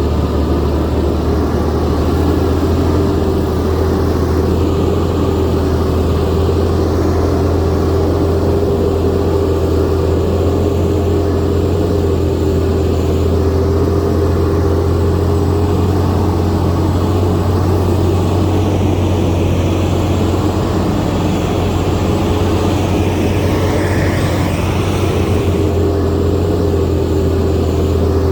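Bulldozer's diesel engine running steadily at an even level, with a steady whine over the low engine drone.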